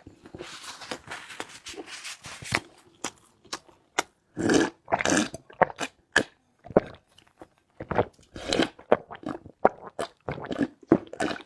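Close-miked eating: chewing and crunching food in an irregular string of short clicks and crunches, with brief pauses between bites.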